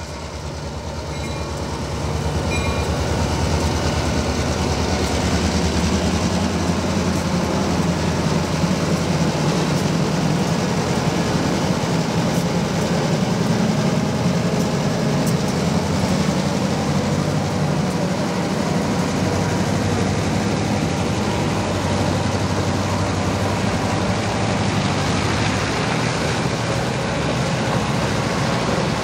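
Diesel freight locomotive running past with its engine working, a loud steady rumble mixed with rolling wheel and car noise. It builds over the first two seconds and then holds.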